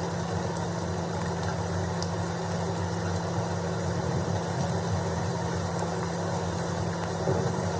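Steady rain with a constant low rumble underneath and a few faint ticks of drops.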